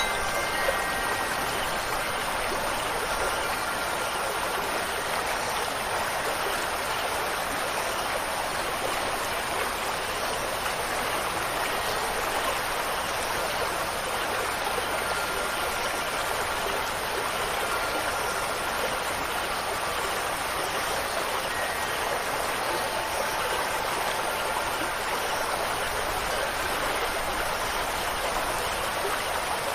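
Steady rushing water, like a stream or small waterfall, with faint wind-chime tones ringing now and then.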